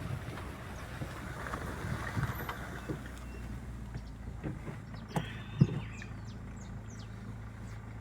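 Car running slowly over a rough dirt track, its engine a low rumble. About five seconds in there are two knocks, then a steady low engine hum runs on.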